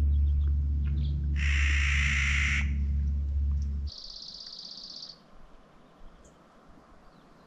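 A steady low rumble with a harsh bird call lasting about a second over it. The rumble cuts off abruptly about four seconds in, and a high, buzzy call follows for about a second against a quiet background.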